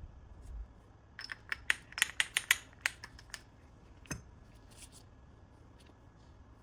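A quick, uneven run of about a dozen sharp clicks over two seconds, then a single knock with a dull thump about four seconds in.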